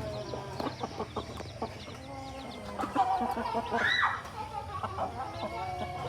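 Chickens clucking and calling in short, scattered notes, with one louder, drawn-out call about four seconds in.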